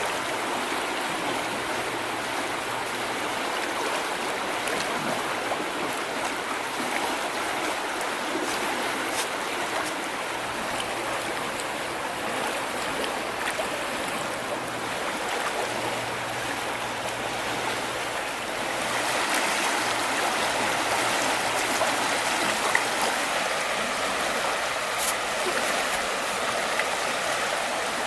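River water rushing and splashing in a steady stream, growing a little louder about two-thirds of the way through.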